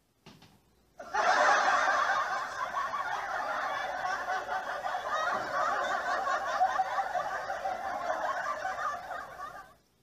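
A crowd laughing together, many voices blending into one dense, continuous laugh that starts about a second in and fades out just before the end.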